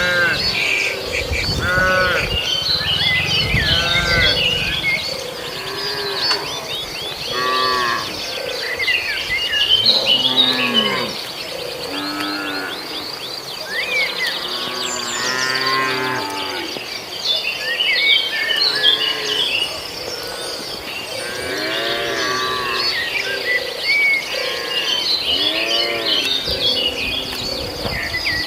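Herd of cattle mooing, many short calls overlapping one after another, over a steady high insect drone.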